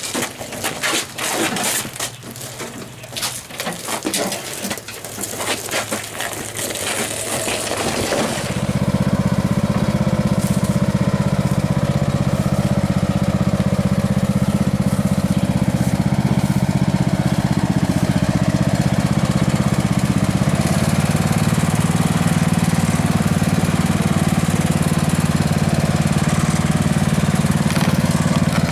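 Clicks and knocks of handling, then about eight seconds in a riding lawn mower's engine starts and runs steadily at an even speed.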